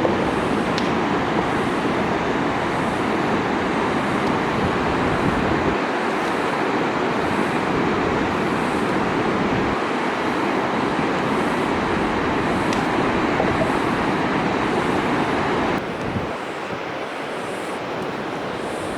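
Steady rushing noise, like running water or wind, that drops a little in level about sixteen seconds in.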